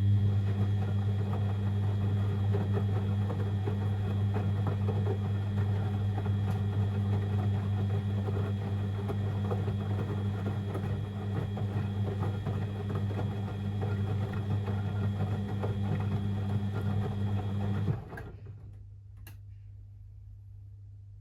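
Beko WML 71433 NP washing machine running with a steady hum over a rushing noise, cutting out suddenly about 18 seconds in. A few faint clicks follow in the quieter stretch afterwards.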